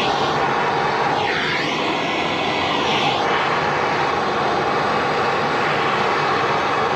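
Handheld gas torch burning with a steady, loud hiss while heating a plumbing fitting. The hiss shifts in tone, sweeping up and down during the first three seconds, then holds even.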